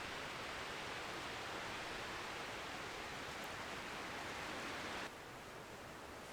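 Steady hissing noise, which drops suddenly to a quieter hiss about five seconds in.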